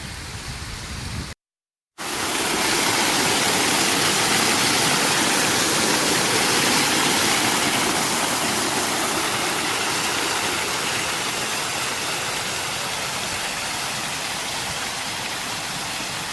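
Outdoor fountain water splashing down in a steady, loud rush close to the microphone. The sound drops out briefly about a second and a half in, then comes back louder.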